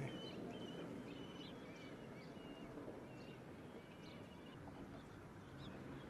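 Birds giving short, high chirps, about two a second, faint over a steady low outdoor rumble.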